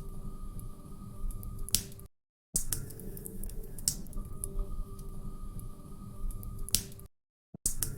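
Log fire crackling, with irregular sharp pops over a low rumble. The sound cuts out to dead silence twice for about half a second.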